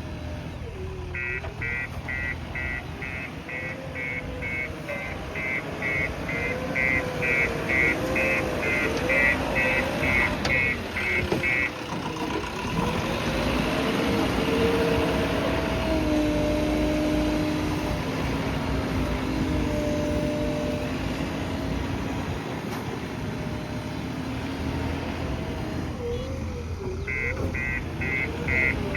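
JCB backhoe loader's diesel engine working, with its reversing alarm beeping in a steady rhythm of about two to three beeps a second while the machine backs up. The beeping stops about 12 s in as the engine revs higher, and starts again near the end.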